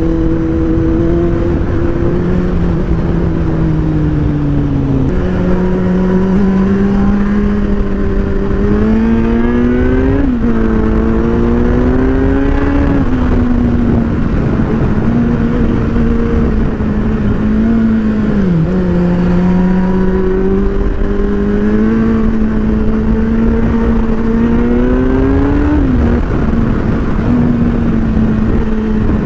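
Motorcycle engine running steadily under way, its pitch stepping down about five seconds in, then rising and dipping several times with the throttle, over a steady rush of wind noise.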